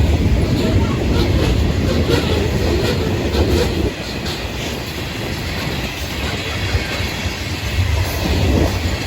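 Florida East Coast Railway freight train rolling past: a steady rumble of the cars, with wheels clicking over the rail joints. It gets a little quieter after about four seconds.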